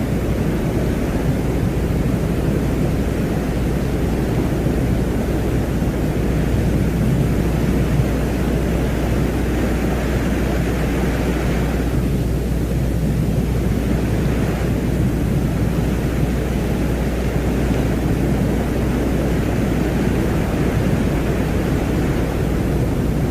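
Steady, dense rumbling noise drone of the kind presented as the 'sound' of Venus, heaviest in the low range, with a higher hiss that swells slowly and briefly drops away about halfway through.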